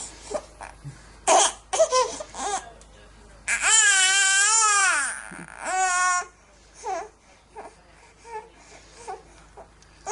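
Infant crying. A few short fussy cries lead into a long wailing cry about three and a half seconds in, then a shorter cry, then soft whimpers.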